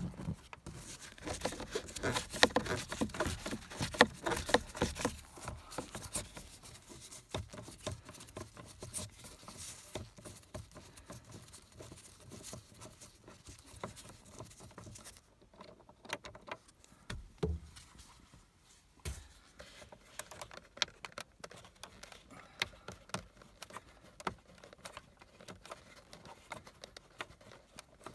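A Torx screwdriver and gloved hand working a screw out of the plastic steering-column shroud: a run of small clicks, scrapes and taps, dense for the first six seconds or so, then sparser and fainter.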